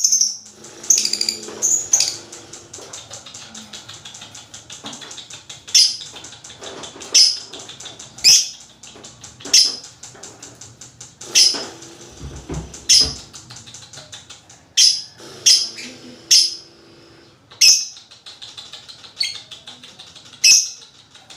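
Lovebird giving sharp, shrill calls, one about every second with a short pause early on. A brief low thump comes about halfway through.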